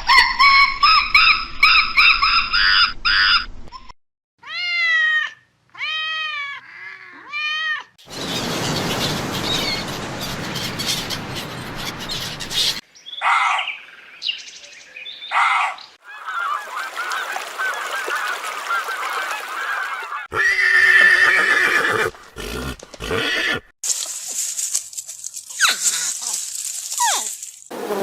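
A string of short animal-call recordings spliced one after another, changing abruptly every few seconds. It opens with rapid repeated honking calls, then a few separate arching calls, followed by stretches of rougher, noisier animal sounds and more calls.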